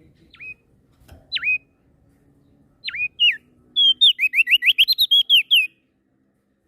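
Songbird singing: three sharp whistled notes, each dropping and then rising, spaced about a second apart. Then a fast run of about a dozen notes, roughly six a second, that stops abruptly.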